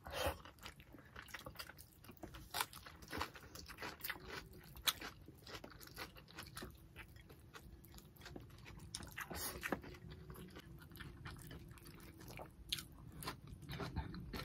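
Close-miked eating sounds: chewing and mouth smacking as tilapia and rice are eaten by hand, with many irregular sharp clicks.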